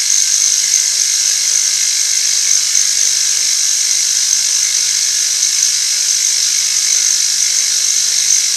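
Milling machine cutter taking a steady 25-thou cut across a workpiece face, spindle at about 1500–1600 RPM: a continuous high-pitched cutting whine over a low motor hum, cutting pretty good.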